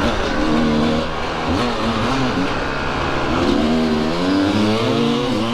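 Two-stroke dirt bike engines running and revving, the pitch rising and falling over and over as the throttle is opened and closed while riding.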